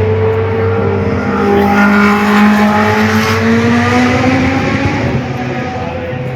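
Vintage Formula One car engine running at high revs, its pitch rising steadily for a few seconds as the car accelerates, then fading.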